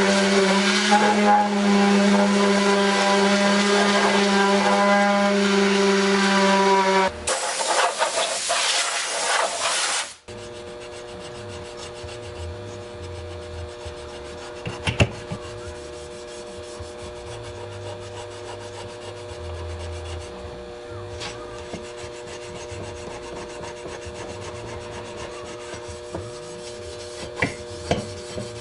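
Power tool running with a steady hum while abrading aluminum, with a rubbing, scraping sound. About ten seconds in, the sound cuts abruptly to a quieter, steady hum with occasional clicks.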